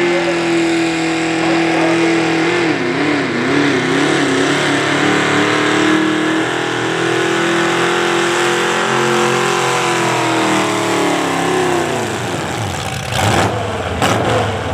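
A pulling tractor's engine held at high revs under load, its pitch wavering briefly about three seconds in, then falling as the engine winds down near the end. Two sharp cracks follow, close together.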